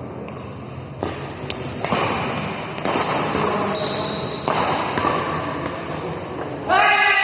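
Badminton rally in an indoor hall: sharp racket hits on the shuttlecock and shoe scuffs and squeaks on the court floor. Near the end a loud sliding pitched sound starts up.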